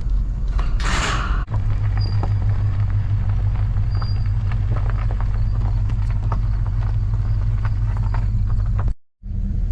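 Chevrolet Suburban driving slowly along a rough road, heard from inside the cab: a steady low rumble with creaks and small knocks from the body. There is a short rushing noise about a second in, and the sound cuts out briefly near the end.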